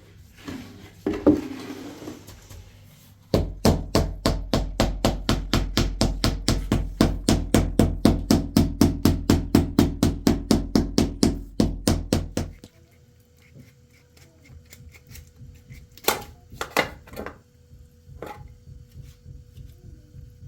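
Rapid, even strikes, about five a second for some nine seconds, then stopping abruptly; a few single knocks come later.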